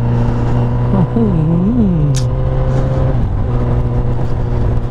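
Honda CBR1000RR's inline-four engine running steadily at road speed over a low rushing noise, its note dipping, swelling and settling again about one to two and a half seconds in.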